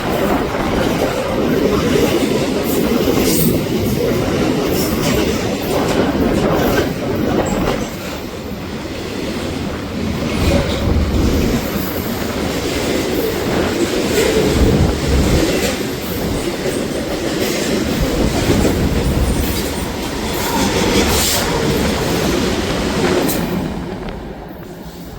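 A train rolling past close by, its steel wheels clattering over rail joints with occasional squeals from the wheels. The sound fades sharply near the end as the train clears.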